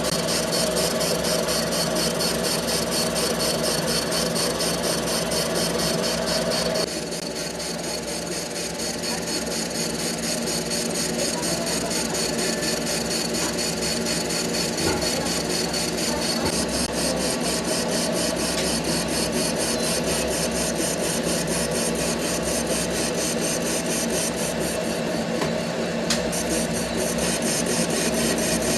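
Steady factory machinery noise: a continuous hum under a hiss. It drops a little in level about seven seconds in.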